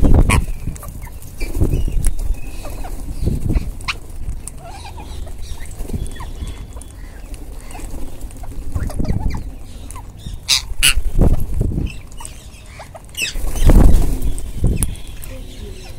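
Rose-ringed (Indian ringneck) parakeets calling, with a few short, sharp squawks, the loudest a quick pair about ten and a half seconds in. Low rumbling swells come and go beneath them, the loudest near the start and again about fourteen seconds in.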